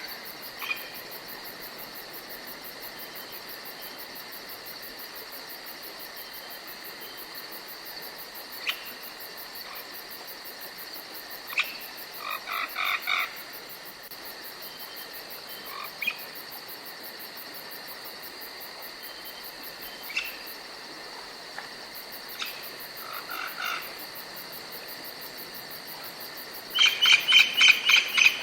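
Forest ambience: a steady high insect chirring throughout, with scattered short bird calls. A louder run of rapid bird chirps starts near the end.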